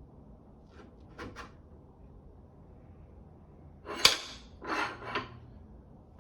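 Handling noises from scooter parts during assembly: a few light clicks, then a sharp knock about four seconds in followed by two short scraping rasps.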